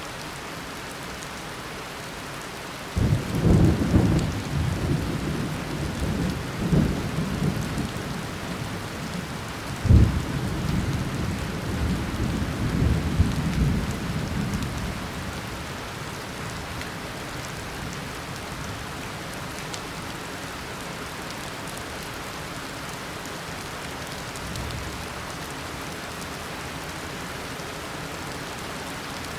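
Steady heavy tropical rain. About three seconds in, thunder breaks out and rumbles. It gives a sharp loud clap near the ten-second mark, then rolls away over the next few seconds, and a faint distant rumble follows near the end.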